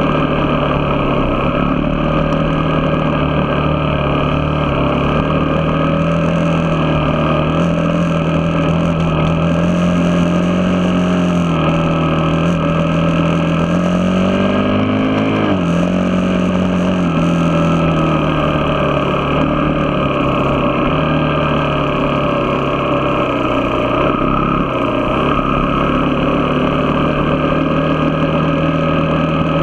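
Vehicle engine running under way at steady revs. About halfway through, the revs climb for a few seconds, then drop sharply and settle again.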